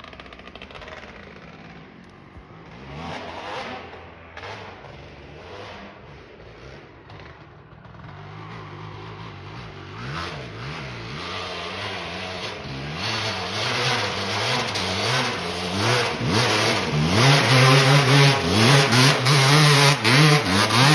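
Dirt bike engine revving up and down under throttle, faint at first and growing much louder over the second half, its pitch rising and falling again and again.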